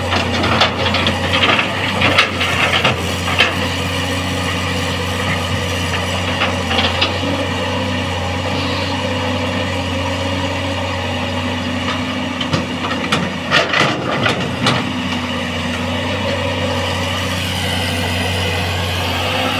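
Caterpillar excavator's diesel engine running steadily under load, with irregular metallic clanks and scrapes in the first few seconds and again about thirteen to fifteen seconds in as the machine works to pull itself out of the mud. Its travel motors are too weak to climb.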